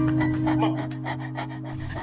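Background music holding steady low notes, with a dog panting in short quick breaths over it.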